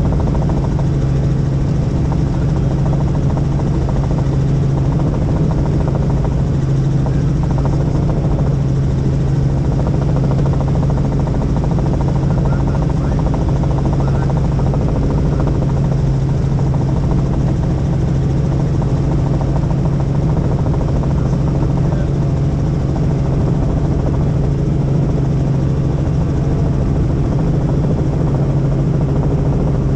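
Helicopter in flight: the steady, even drone of the rotor and engine, with a strong low hum.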